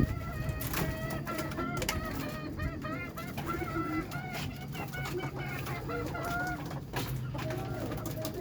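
Domestic pigeons cooing amid many short, overlapping calls from other birds.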